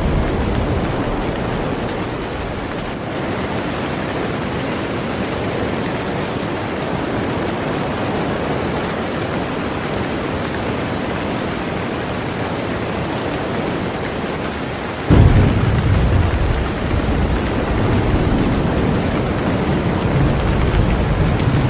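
Heavy rain beating steadily on a boat. About two-thirds of the way through, a sudden deep rumble of thunder breaks in and goes on rumbling under the rain.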